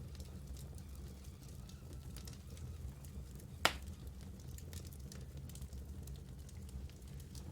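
Wood fire burning in a fireplace, with a low steady rumble and scattered small crackles, and one loud sharp pop from the logs a little past halfway.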